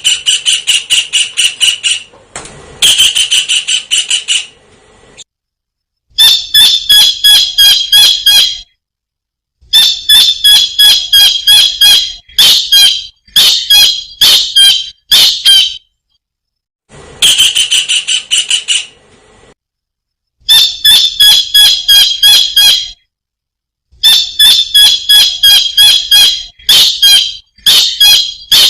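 Small kingfisher (tengkek udang) calling: sharp, high notes repeated about three a second in runs of two to three seconds, with brief silences between the runs.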